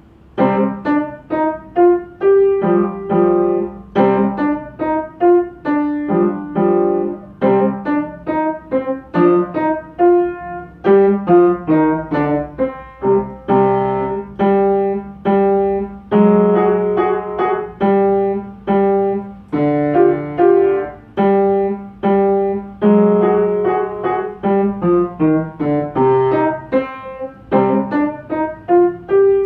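Solo piano playing a short piece in separate, clearly struck notes and chords, starting about half a second in, with one note around the middle of the range coming back again and again.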